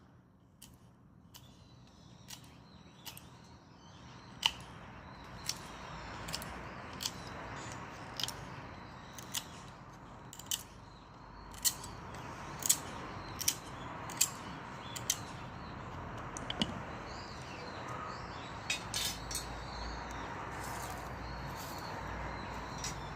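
Dry perilla branches burning in a Solo Stove wood stove, crackling with irregular sharp pops over a rushing flame sound that grows louder about four seconds in.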